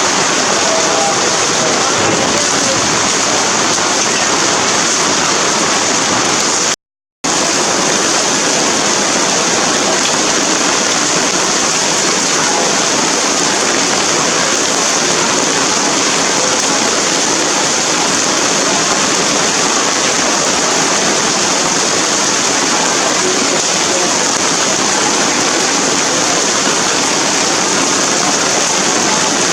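Heavy rain falling steadily as a dense, even hiss, with a brief dropout to silence about seven seconds in.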